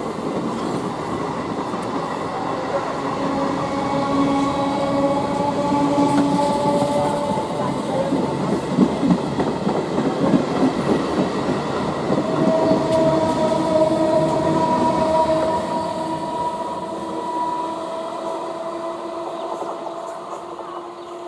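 Conventional EMU local train's coaches rolling past close by: a steady rumble of wheels on rail with whining tones, and a spell of quick rail-joint clatter in the middle. The sound fades toward the end.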